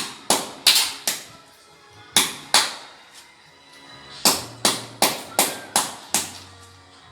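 About a dozen sharp knocks at an uneven pace, some in quick pairs, over background music.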